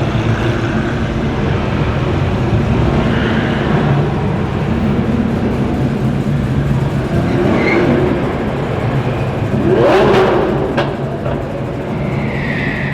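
Lamborghini Aventador SVJ's V12 engine running with a low, steady idle, then revved sharply about ten seconds in, with a short crack just after the rev.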